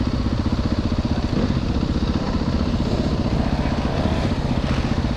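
Dirt bike's single-cylinder four-stroke engine running at low, fairly steady revs while the bike is ridden up through creek rocks.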